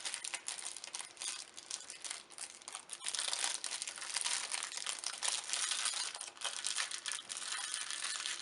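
Crinkling and rustling of opened Magic: The Gathering booster pack wrappers and cards being handled, a dense run of small crackles.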